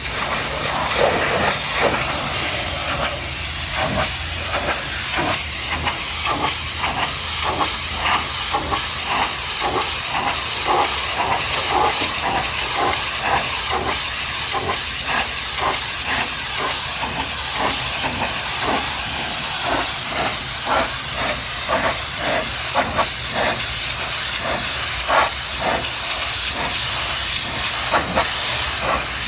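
High-pressure washer jet spraying water onto a muddy truck: a loud, steady hiss broken by rapid, uneven spattering as the jet moves over the surface.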